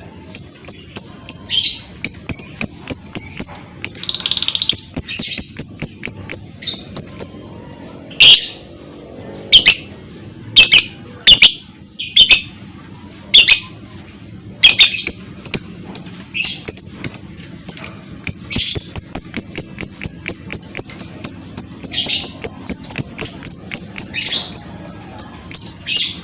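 Lovebird chattering: long runs of rapid, evenly repeated high chirps, the trill that keepers call 'ngekek'. Through the middle, louder sharp squeaky calls come one at a time about once a second, and a long unbroken chirp run follows near the end.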